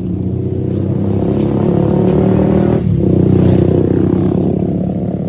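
Motorcycle engine running steadily while riding, with a brief drop about three seconds in.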